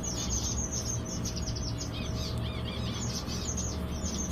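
A flock of zebra finches chirping continuously: many short, nasal, overlapping calls at once, over a low steady hum.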